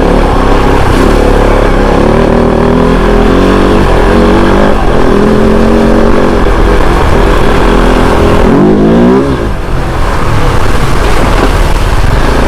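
Kove 450 Rally's single-cylinder engine running under the rider, its pitch stepping up and down with the throttle, with one quick rising rev about nine seconds in.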